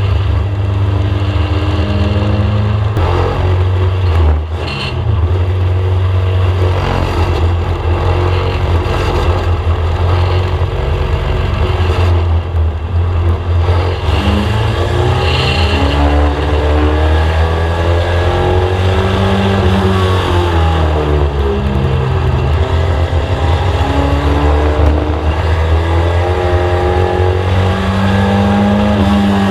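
Inside a VW Mk1 Scirocco race car, its four-cylinder engine runs hard under load. The revs fall and climb again every few seconds as it lifts into the turns and accelerates out of them around a short oval, with a brief dip about four seconds in.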